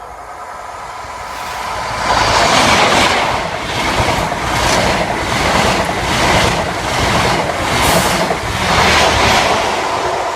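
CrossCountry High Speed Train (HST) passing close by at speed. It builds over the first two seconds, then a loud rush with a regular clatter of wheels and bogies as the coaches go by, easing off near the end.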